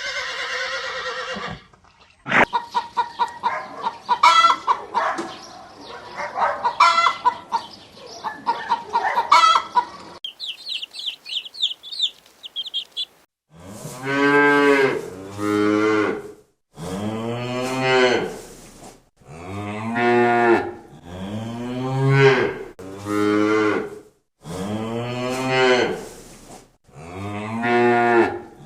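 A horse's whinny ending at the start, then hens clucking for several seconds and a brief high twittering of small birds or chicks. Then cattle moo about ten times, in short, low calls one after another.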